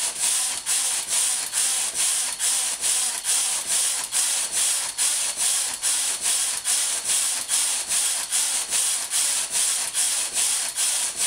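Hand-operated knitting machine: the yarn carriage is slid back and forth across the needle bed, knitting row after row with a rasping, clattering stroke that repeats about twice a second and stops just at the end.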